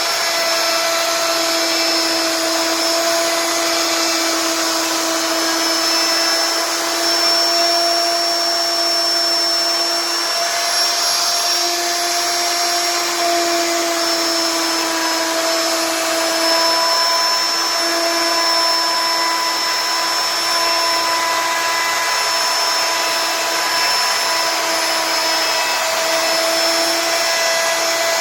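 CNC wood router's spindle running steadily as it carves wood: a continuous high whine whose pitch wavers slightly, over a hiss of cutting.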